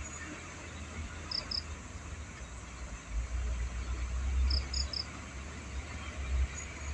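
Insects chirping: a steady high chorus with a few short, paired chirps, over a low rumble that swells around the middle.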